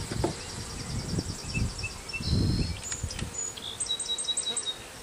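Honeybees buzzing around an opened hive, with a few soft low rumbles. Series of short high chirps sound over it, most clearly in the second half.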